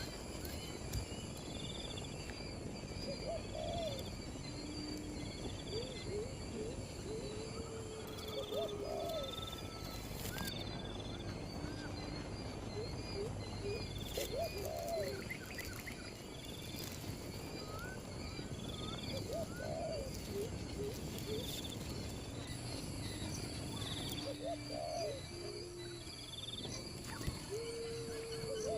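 Low-pitched bird calls, short level and arched notes repeated every few seconds, over a steady high-pitched drone of insects.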